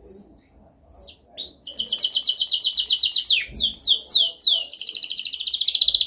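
Domestic canary singing. A soft start breaks into a fast, loud trill of rapidly repeated notes, then a few falling swooping notes, then another rapid trill.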